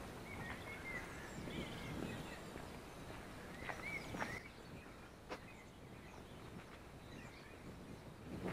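Faint, short bird chirps, a few at a time, over quiet outdoor background noise, with a single sharp click about five seconds in.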